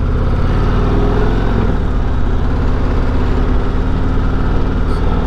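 Harley-Davidson 2023 CVO Road Glide's 121 cubic-inch V-twin with variable valve timing running steadily on the road through its stock exhaust, the engine note dipping slightly about a second and a half in.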